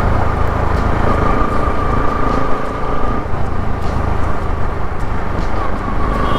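Bajaj Pulsar NS200's single-cylinder engine running through an aftermarket full-system exhaust while riding at steady speed, with a steady, unbroken rumble.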